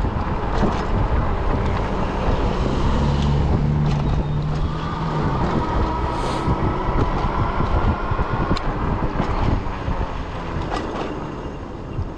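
Fat-tire electric bike riding along: wind buffeting the microphone over the rumble of the wide tires rolling on pavement, with a steady whine from the bike for a few seconds in the middle. The directional fat tires are now mounted the right way round and the bike is running smoothly.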